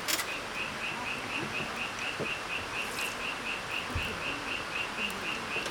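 A cricket chirping in a steady rhythm, about four high chirps a second. A sharp click sounds right at the start.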